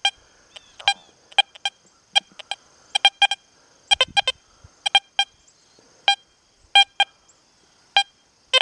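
XP Deus 2 metal detector with an 11-inch coil giving short electronic beeps, mostly in quick pairs, on each pass of the coil as it is swept about 8 inches above an old colonial iron nail. The nail reads in the 80s on the meter, a high-conductor response.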